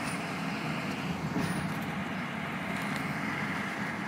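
Car's engine and tyres running steadily as it drives slowly, heard from inside the cabin.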